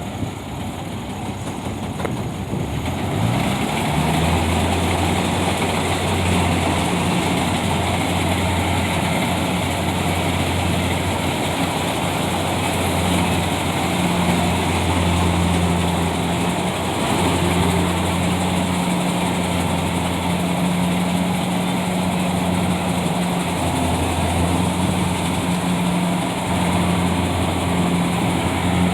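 Tractor engine that picks up speed about three seconds in, then runs steadily with a deep, even hum.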